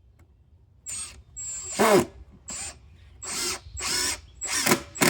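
Power drill driving screws into the table's wood in about seven short trigger bursts, starting about a second in; in one burst the motor's pitch drops as it bogs under load.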